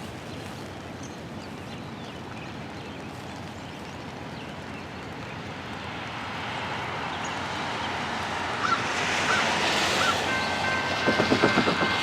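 A Norfolk Southern GE ES40DC diesel locomotive leading an intermodal container train approaches, its rumble growing steadily louder over the second half. About ten seconds in a steady chord of several high tones comes in, with a quick run of rhythmic thumps just after.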